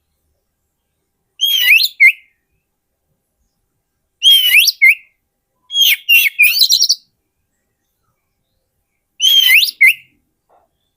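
Oriental magpie-robin singing: four short phrases of sweeping, whistled notes with pauses between them, the third phrase the longest.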